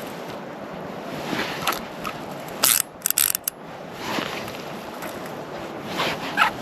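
Fishing reel mechanism clicking in a quick cluster of short bursts about three seconds in, over steady wind and water noise.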